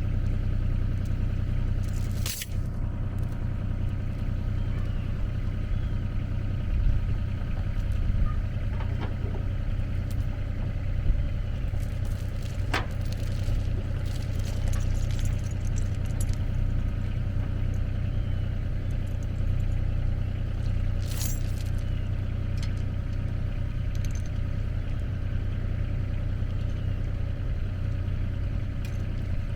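Engine running steadily at idle, with a few sharp knocks or clicks: one about two seconds in, one near the middle and one about two-thirds of the way through.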